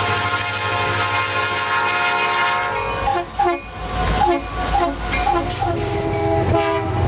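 Diesel locomotive air horn sounding a long chord at a grade crossing over the low rumble of the locomotives' engines, its pitch dipping slightly as it passes. About three seconds in the horn stops and a bell rings about twice a second while the engines keep rumbling.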